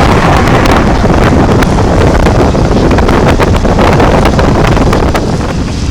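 Strong wind buffeting the microphone: a loud, steady rumble with crackling.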